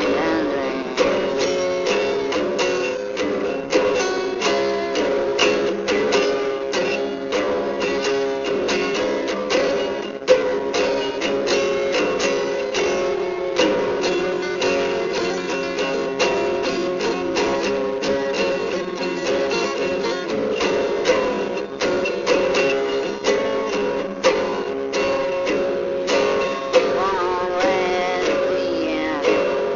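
Music: a strummed acoustic guitar or similar plucked string instrument playing a steady rhythmic accompaniment.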